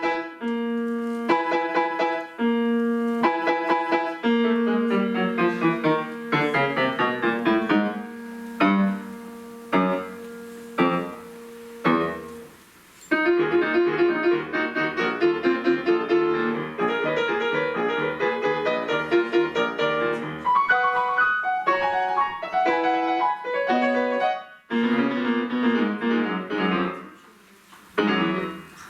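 Solo piano playing a lively piece: repeated chords and quick runs of notes, with a few loud separate chords and short pauses between them about a third of the way through.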